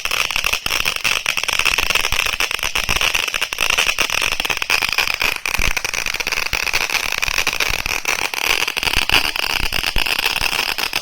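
Winda Fireworks Toadally Purple firework fountain in its crackle finale: a steady hiss of the spray packed with dense crackling, cutting off right at the end as the fountain burns out.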